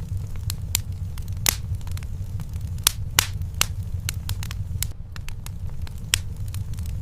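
Wood fire burning in a fireplace: irregular sharp pops and snaps over a steady low rumble, with a few louder pops.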